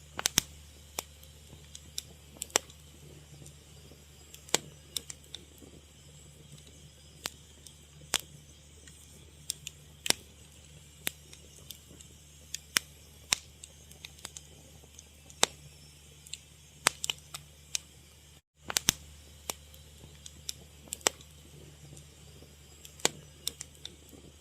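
Wood fire crackling, with sharp irregular pops and snaps over a steady low rumble, cutting out briefly about eighteen seconds in.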